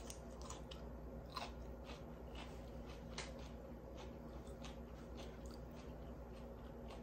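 A person chewing food close to the microphone: faint, irregular wet clicks and soft crunches as a mouthful of green beans is chewed.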